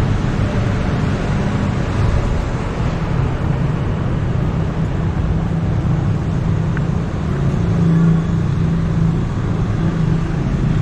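Street traffic: motor vehicle engines running and passing, a steady low hum with road noise.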